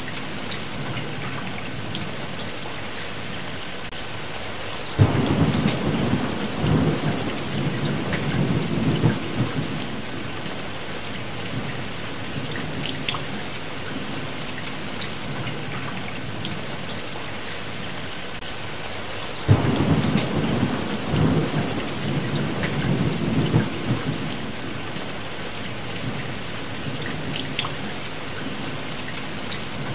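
Steady rain with scattered drops, and two rolls of thunder, one about five seconds in and another about twenty seconds in. Each starts suddenly and rumbles for several seconds before fading.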